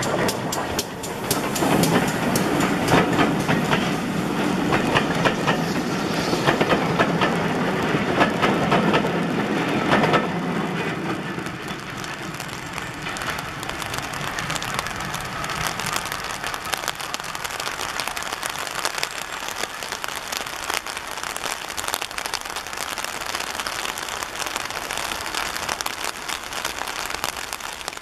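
Passenger coaches of a steam-hauled train rolling past close by, their wheels clicking and rattling over the rail joints. About ten seconds in the sound begins to fade as the train draws away.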